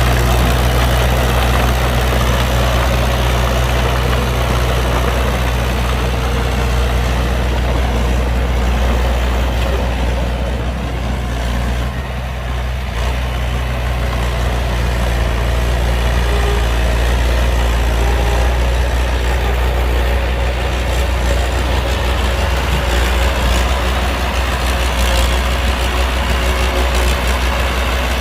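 Heavy diesel engine of earth-moving equipment running steadily at a low, even pitch.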